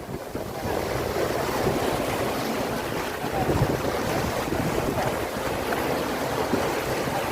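Wind buffeting the microphone over the wash of sea waves, an irregular rumbling noise with no clear engine tone.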